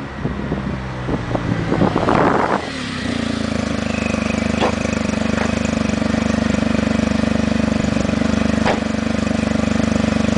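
Smart fortwo's turbocharged three-cylinder engine, breathing through an XSP exhaust with no catalytic converter, starting with a loud burst about two and a half seconds in, then settling into a steady idle with a few sharp ticks.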